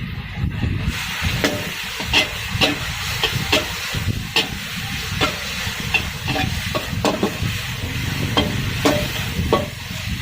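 Crispy pork being stir-fried in a wok: a steady sizzle over a low rumble, with a metal spatula clanking and scraping against the wok about twice a second. The sizzle brightens about a second in.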